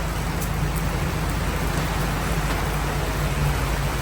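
Heavy rain falling, a steady even hiss, with a steady low hum underneath.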